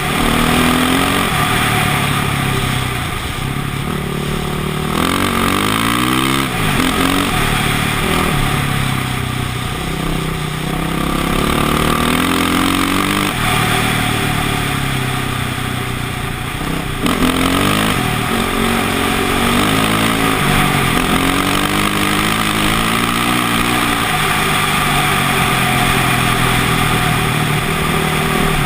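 KTM motocross bike's engine ridden off-road, revving up and falling back again and again as the throttle is worked, steadier near the end.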